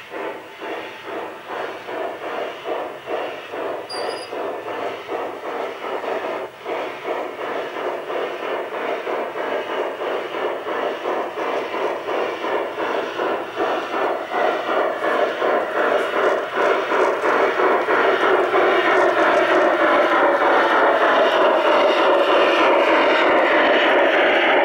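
Large-scale garden-railway model steam locomotive chuffing, the beats quickening and growing louder as it draws near.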